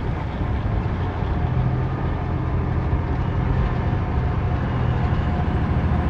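Semi truck's diesel engine and tyre noise droning steadily inside the cab while cruising at highway speed.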